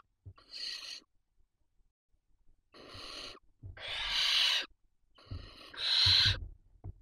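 Barn owl chicks' rasping, hissing calls in the nest: four breathy bursts, each under about a second and a half, with a pause of about a second and a half after the first and the last two the loudest.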